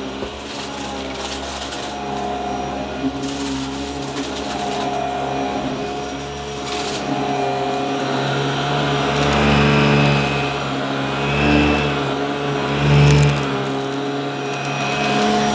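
Upright vacuum cleaner running with a steady motor whine that swells louder a few times in the second half, with crackling from debris being sucked up.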